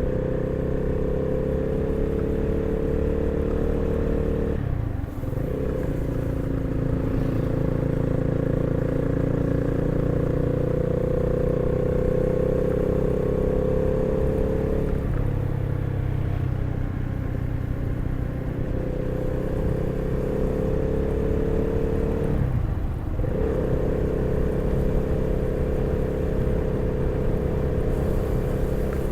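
Honda CB 300R's single-cylinder engine running under way. The note holds or edges up in pitch, with short breaks about five seconds in and again near twenty-three seconds that fit gear changes.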